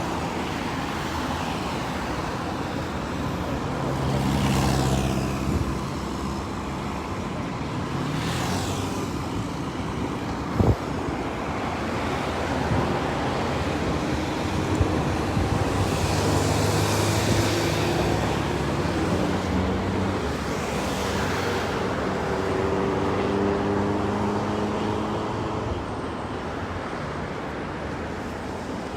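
Road traffic: engines running and vehicles passing close by one after another, about four pass-bys, over a steady engine hum. There is a single sharp knock about ten seconds in.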